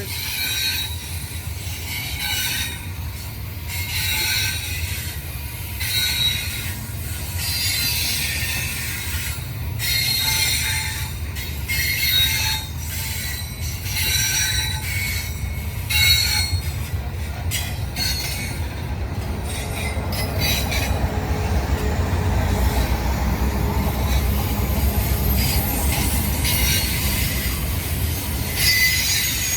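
Long double-stack freight train rolling past: a steady low rumble of wheels on rail, with high-pitched wheel squeal coming and going. The rumble grows heavier in the last third.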